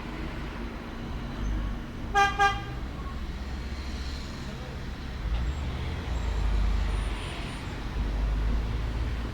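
A vehicle horn tooting twice in quick succession, about two seconds in, over a steady low rumble of road traffic that swells and fades.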